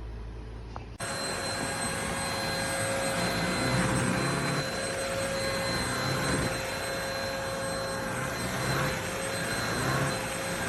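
Mattress vacuum cleaner motor running steadily with a high whine, starting abruptly about a second in.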